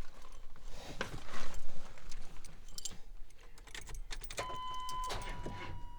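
Keys jangling and clicking, as of a key ring being handled and a key put into the ignition, then about four seconds in a steady electronic beep tone starts, breaks off briefly and holds on.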